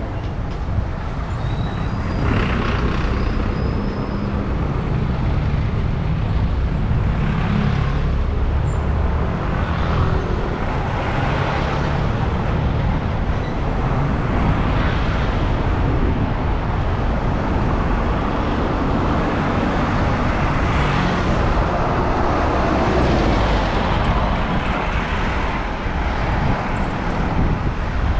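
Steady city traffic and road noise heard while riding, with wind rumbling on the microphone and vehicles swelling past every few seconds.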